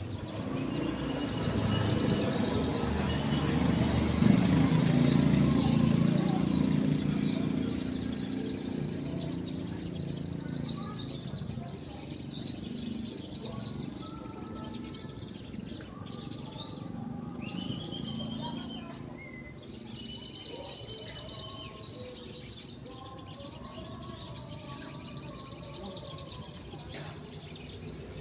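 Many caged little spiderhunters (sogon) singing at once: a dense chatter of rapid, high chirps and trills, over a low murmur of crowd voices that is loudest in the first third.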